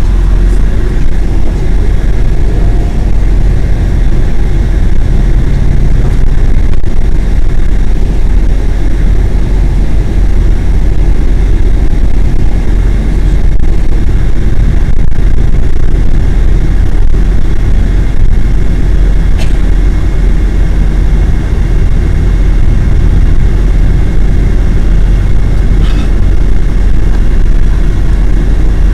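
Steady, loud rumble of a bus on the move, mostly deep low-frequency noise with no pauses.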